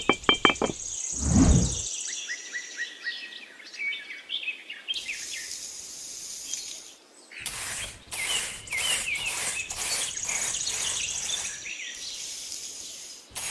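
Birds chirping and trilling over a faint insect chorus. Through the middle, short scratchy strokes of a small stick rake dragged through sand. A rhythmic stretch of music stops just after the start.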